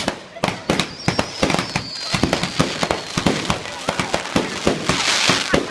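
Garden fireworks going off in quick succession: a rapid run of sharp bangs and crackles, with a wavering whistle about a second in and a hissing rush near the end.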